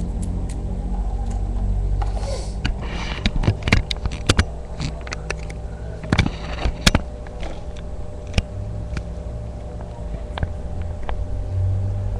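A run of small clicks and taps from handling objects, bunched in the middle and thinning out toward the end, over a steady low rumble.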